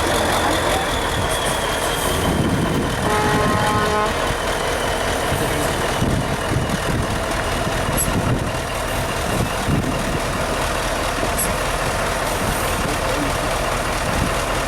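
Heavy trial truck's diesel engine running steadily, with a short run of beeps about three seconds in.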